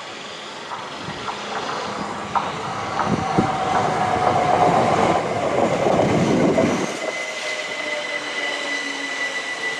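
Class 375 Electrostar electric train running along the rails, growing louder over the first few seconds with scattered clicks from the wheels. About seven seconds in, the deep rumble drops away suddenly, leaving a steady high whine.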